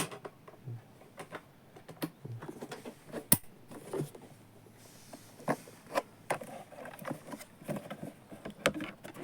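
Light clicks and knocks of small plastic parts at irregular intervals, with the sharpest click about three seconds in and another near the end.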